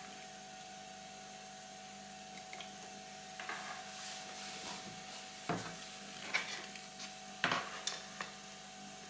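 A few short clicks and knocks as cables and parts are handled and connected on a workbench, over a steady electrical hum.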